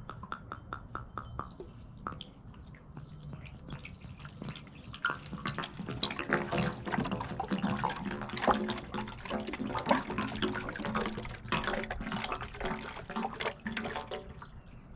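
Liquid fuel treatment poured from a bottle into a boat's fuel filler, gurgling and splashing irregularly, busiest in the middle stretch.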